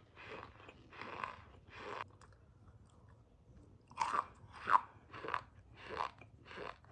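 Argo cornstarch being squeezed by hand, giving a series of short crunchy squeaks about every half second to second, with a pause of about two seconds midway.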